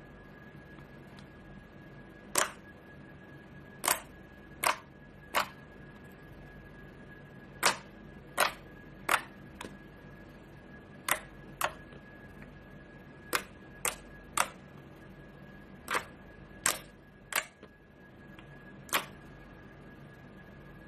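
Slime being worked by hand, giving about sixteen sharp pops at irregular intervals, over a faint steady high tone.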